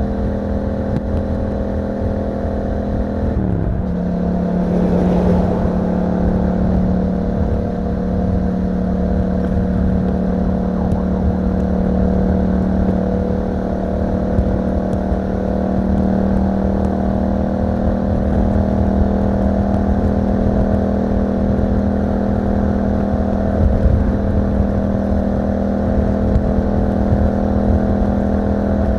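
Yamaha MT-07's parallel-twin engine through an Akrapovic exhaust, running steadily under way, with low wind rumble. Its pitch dips briefly about three and a half seconds in, then holds steady.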